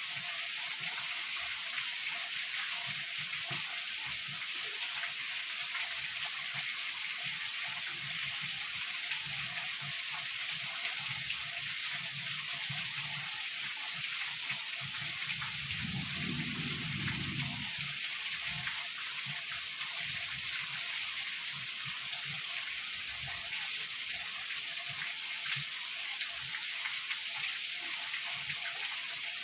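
Heavy rain falling in a steady, even hiss. A brief low rumble swells and fades a little past halfway.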